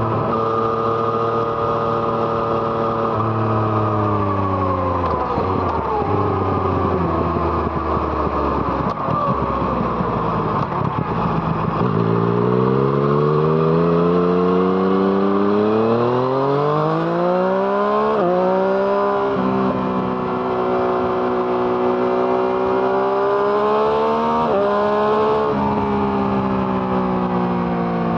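Yamaha MT-09's three-cylinder engine through an Arrow Thunder exhaust, riding: the engine note falls for the first ten seconds or so as the bike slows, then revs up hard. Two sudden drops in pitch in the second half are upshifts, each followed by the note climbing again.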